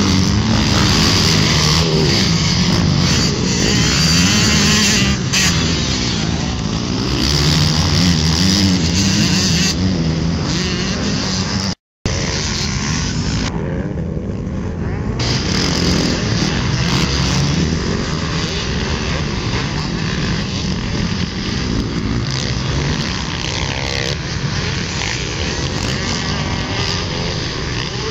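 Motocross dirt bike engines revving, the pitch rising and falling again and again as the throttle opens and closes. The sound drops out for an instant about twelve seconds in, then goes on steadier and a little quieter.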